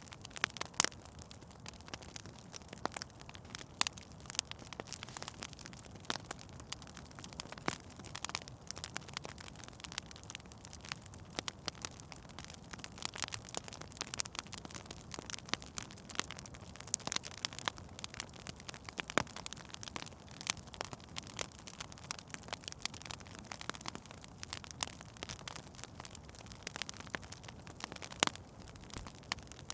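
Wood fire in a fireplace crackling, with frequent irregular sharp pops over a low steady hiss of burning.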